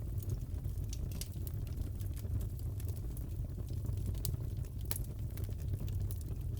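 Fire crackling in a fireplace: a low steady rumble with scattered sharp pops, a stronger pair of pops a little after four and five seconds in.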